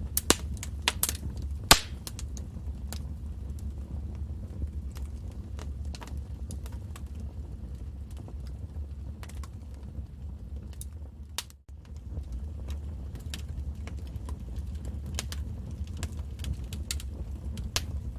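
Wood fire burning in a fireplace: a steady low rumble with irregular crackles and sharp pops, the loudest pops in the first couple of seconds. The sound dips briefly about two thirds of the way through.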